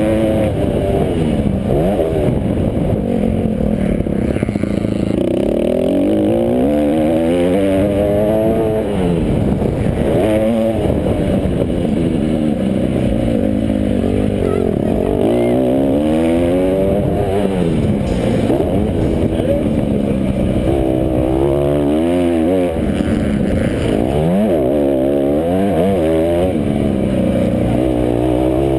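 Motocross bikes racing: several off-road motorcycle engines revving up and down through the gears, their pitches rising and falling and overlapping as the bikes pass.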